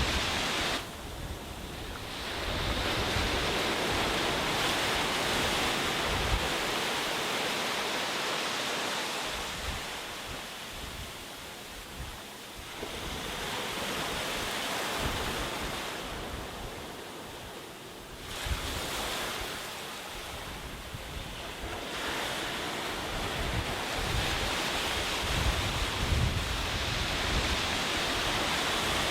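Sea waves washing onto a beach, the surf rising and falling in several slow swells.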